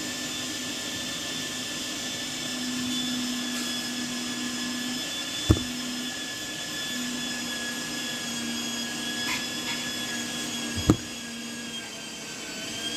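Steady motor whine of an electric kitchen appliance running in the background while meat is being prepared. Two sharp knocks cut through it, one about halfway and one near the end.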